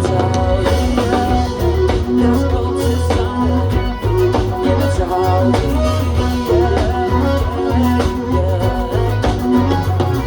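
Instrumental break of a pop ballad played by a band, with guitar and a steady bass line carrying the melody and no vocals.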